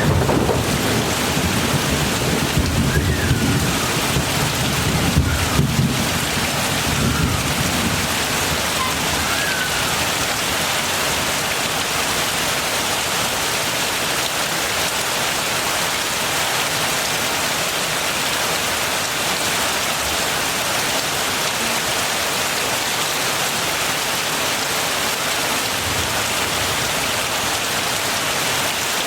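Heavy rain falling steadily, with a low rumble of thunder that fades away over the first several seconds. A few faint chirps sound within the first ten seconds.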